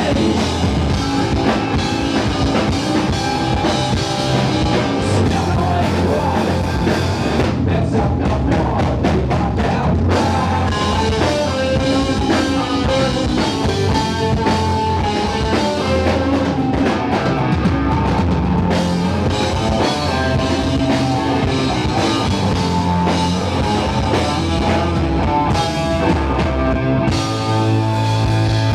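Rock band playing live, a drum kit driving a steady beat under bass and other instruments.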